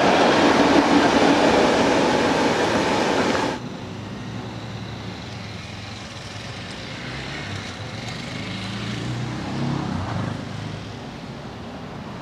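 Red double-deck passenger train running past on the rails, a loud, steady wheel-on-rail rush and rumble. It cuts off suddenly about three and a half seconds in, leaving a much fainter low rumble and hum of a train moving away, which swells briefly near the end.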